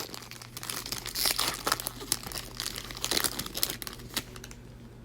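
Basketball trading cards being flipped and shuffled by hand: quick papery rustling and crinkling that stops about four and a half seconds in.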